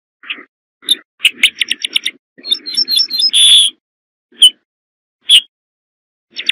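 Ortolan bunting calling: a quick run of short high chirps about a second in, then a denser phrase ending in a longer note, then two single sharp calls.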